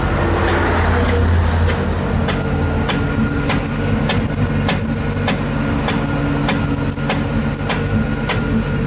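Lada Zhiguli running in gear with its rear wheels lifted and turning: a steady engine hum with an even knock about three times a second from the left side, which the owner traces to a brake pad whose friction lining has broken away from its backing plate.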